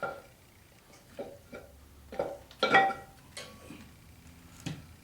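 A steel flywheel knocking and clinking against the crankshaft flange of a Chevy 350 V8 as it is worked into place to line up the bolt holes. It makes about six separate clanks with short metallic ringing, the loudest a little under three seconds in.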